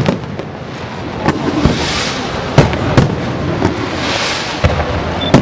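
Fireworks display: a string of sharp bangs from bursting shells, about six in a few seconds, over a steady hissing crackle.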